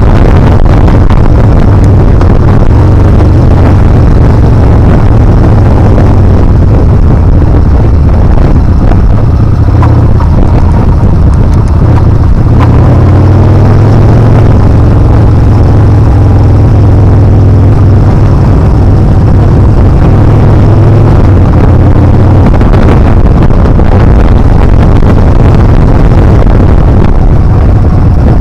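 Yamaha Bolt's air-cooled V-twin engine running under way on the motorcycle, buried in heavy wind buffeting on the microphone. The engine note shifts in pitch through the middle.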